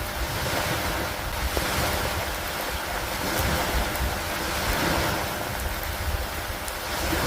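Steady rain with wind: a continuous full-range hiss over a low rumble, swelling and easing gently every few seconds, with a few faint drop ticks.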